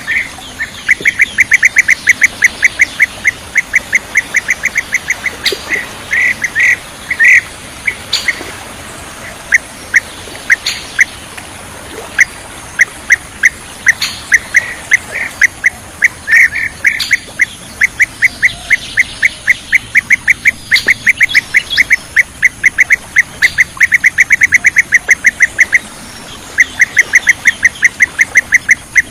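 Bee-eater calls: long runs of rapid, evenly repeated short notes, about seven or eight a second, broken by a few short pauses and slower, louder notes.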